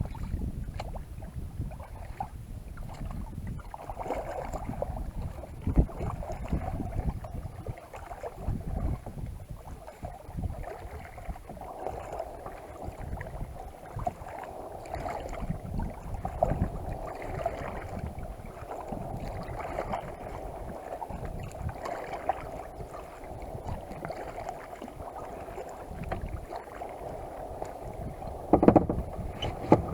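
Kayak on a lake: paddle strokes and water splashing against the hull, with wind rumbling on the microphone and a few louder knocks near the end.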